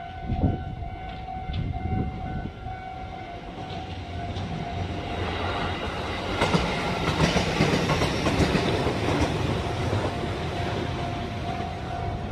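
Kintetsu electric train passing at speed: the noise of the train and its wheel clatter builds from about four seconds in and is loudest around seven to nine seconds. A steady high ringing tone sounds throughout.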